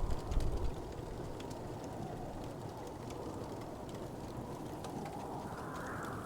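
Wood fire crackling, with scattered small pops over a steady low rumble. A few soft thumps come about half a second in, and the rumble swells briefly near the end.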